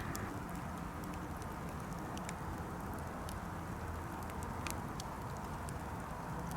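Birch-wood campfire burning with a steady low rush of flame, broken by scattered sharp crackles and pops from the wood, the loudest about two thirds of the way through.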